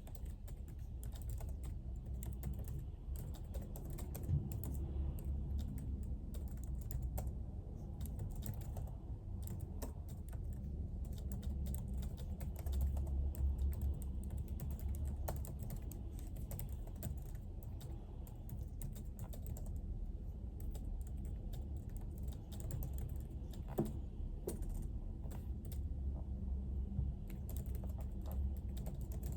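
Typing on a computer keyboard: irregular key clicks over a steady low hum, with two louder knocks, one about four seconds in and one a few seconds before the end.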